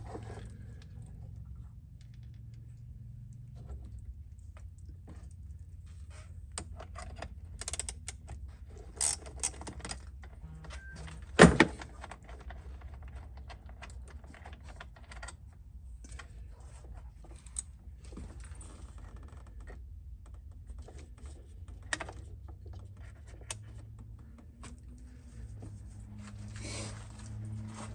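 Scattered clicks and clinks of small metal hardware and tools being handled, with one loud knock about eleven and a half seconds in, over a low steady hum.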